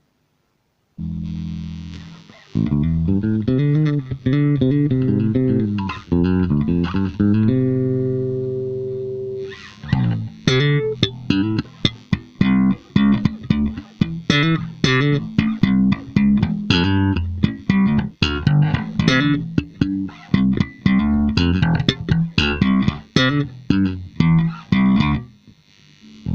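Electric bass guitar played through a VOX StompLab 2B bass multi-effects pedal. After about a second of silence comes a held note, then a phrase of notes and a long sustained note. From about ten seconds in, it plays a busy run of short notes with sharp attacks.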